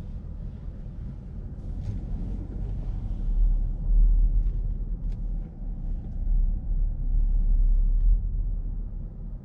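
Audi S6 C7's 4.0 TFSI V8 running at low revs at parking speed, heard from inside the cabin: a steady low rumble that swells about four seconds in and again near the end, with a few faint ticks over it.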